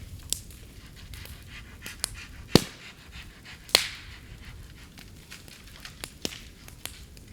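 Bamboo burning in a bonfire: irregular sharp cracks and pops, the two loudest about two and a half and nearly four seconds in, over the fire's steady noise.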